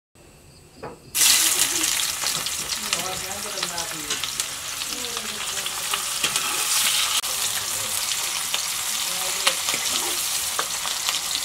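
Food hitting hot oil in an iron wok about a second in, then sizzling steadily as it fries, with the clicks and scrapes of a metal ladle stirring it against the pan.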